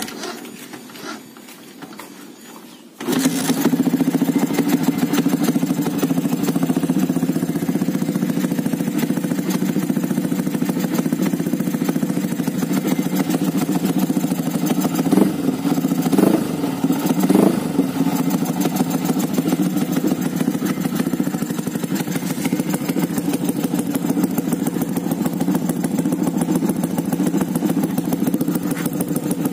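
Yamaha FZ150i's 150 cc single-cylinder four-stroke engine, breathing through a new short aftermarket GL Racing muffler, starts about three seconds in and then runs steadily at idle. A few short throttle blips come about halfway through.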